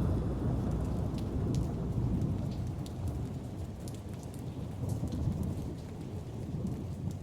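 Rain falling, with a low rumble of thunder, slowly fading away.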